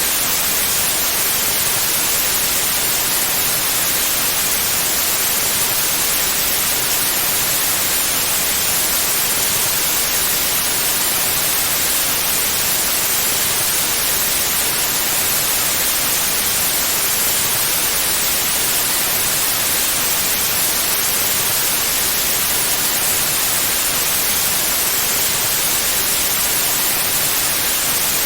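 Steady white noise: an even, unbroken hiss across the whole range, brightest in the highs, with no change in level.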